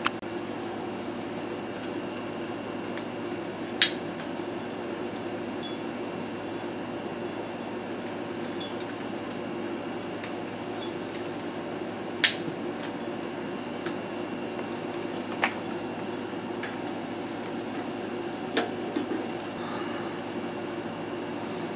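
Regner gas burner running steadily under a PM Research horizontal boiler, a steady hum with a faint high whine. A few sharp metallic clinks break in, two of them louder than the rest.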